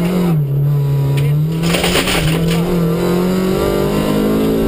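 MG ZR 105 rally car's four-cylinder engine heard from inside the cabin under way. The revs stay low for the first second or so, then climb steadily through the last part as the car accelerates.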